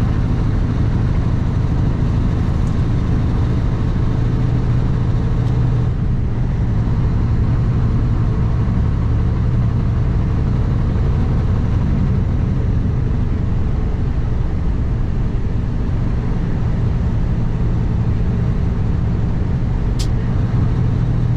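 Steady drone of a Kenworth W900 truck's diesel engine with road noise, heard from inside the cab, with one short click near the end.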